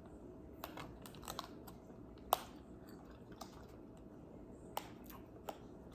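Quiet, sparse clicks and taps of eating and handling food and sauce packets at a table, with one sharper click about two seconds in.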